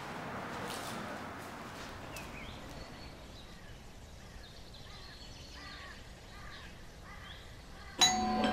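Birds chirping faintly over a low outdoor background hiss. About half a second before the end, a sudden much louder sound with several steady ringing tones cuts in.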